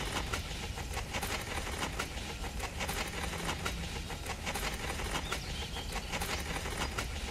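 A small metal spoon dabbing and smoothing wet cement: a run of soft, irregular clicks and scrapes over a steady low hum.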